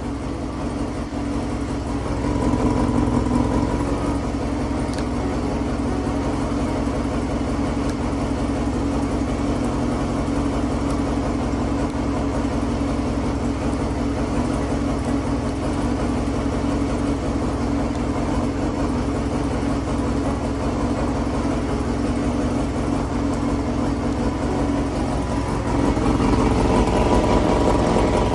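Honda Jade 250's four-cylinder engine running steadily at idle, getting louder briefly a few seconds in and again near the end.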